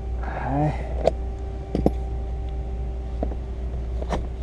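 Scattered sharp clicks and taps of hand work on a car's quarter glass, about four in all, over a steady low hum. A brief vocal murmur comes near the start.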